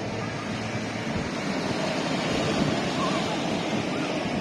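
Ocean surf washing on the shore: a steady rush of breaking waves.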